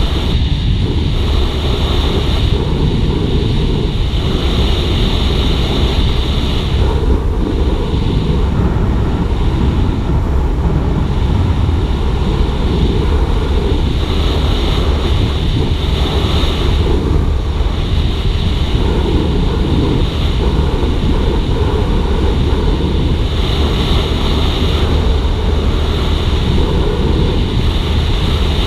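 Suzuki GSX-R150 single-cylinder motorcycle riding at steady speed, its engine running under heavy wind noise on the microphone.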